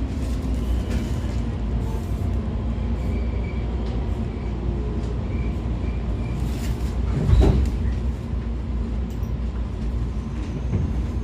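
Interior running noise of a JR 113 series motor car with MT54 DC traction motors: a steady rumble of wheels and bogies, with faint rail-joint ticks. One brief louder burst comes about seven seconds in.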